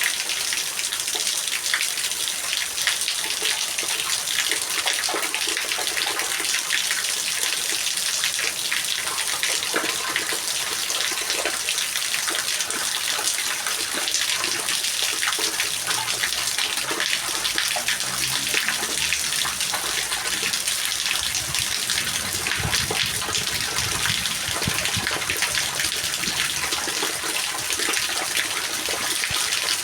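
Steady rain falling, with many close drops striking. A faint low rumble comes and goes in the middle.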